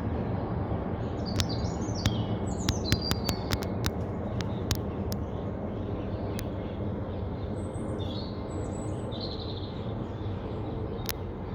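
Low jet rumble of a Boeing 767-300ER that has just passed overhead on approach, slowly fading as it moves away. Birds chirp over it, and sharp clicks come mostly in the first few seconds.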